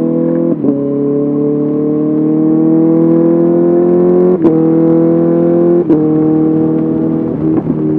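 Honda CBR650R inline-four engine through an SC Project SC1R exhaust, pulling with its note rising slowly. The note breaks sharply three times, about half a second in, around four and a half seconds and around six seconds, at gear changes, and a few more quick breaks come near the end.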